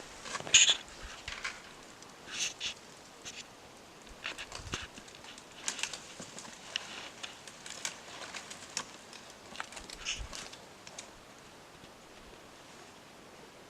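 Irregular footsteps of a person walking over rough ground, short crunches coming roughly every half second to a second, loudest about half a second in.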